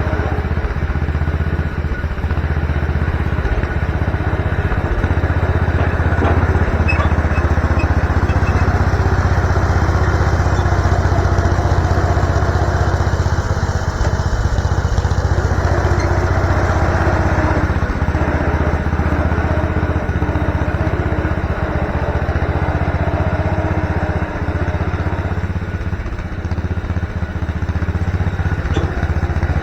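MTD garden tractor engine running steadily.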